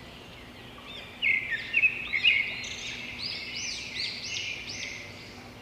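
Birds chirping: a run of short, high, arching chirps with a few louder flat notes, starting about a second in, over a faint steady background.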